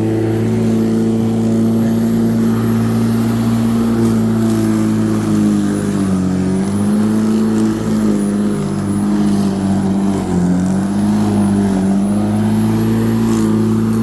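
Lawnmower running with a steady hum whose pitch sags twice, about halfway through and again a few seconds later, then recovers as the motor is loaded by thick, overgrown grass.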